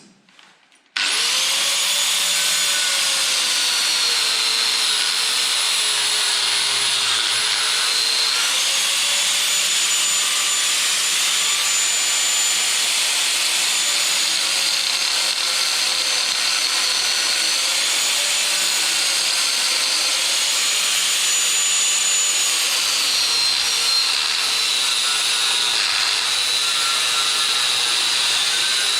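Power cutting tool with a spinning disc cutting through a steel nut tack-welded onto a threaded rod. It starts about a second in and runs steadily, its motor pitch dipping and recovering several times as the disc bites.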